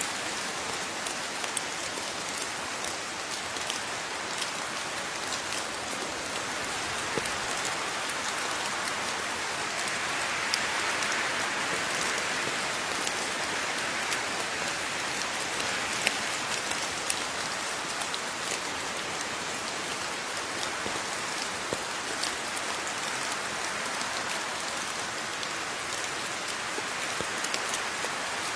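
Steady rain falling, with many distinct drops ticking sharply on a surface.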